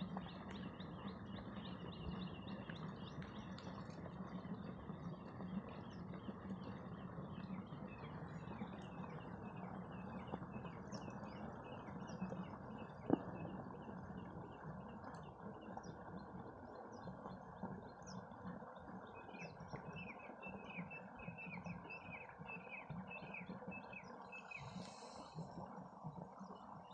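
Small birds chirping in rapid series of short, high, falling notes that come and go, over steady low background noise. A single sharp click about thirteen seconds in.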